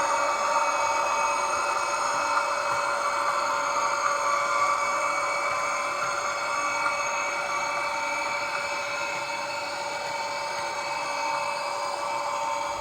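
Hornby FLIRT model train running round the layout: its small electric motor gives a steady high-pitched whine made of several even tones. The whine slowly grows quieter and cuts off abruptly at the end.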